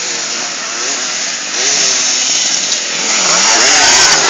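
Motocross bike engines revving, their pitch rising and falling over and over, growing louder about halfway through and again near the end.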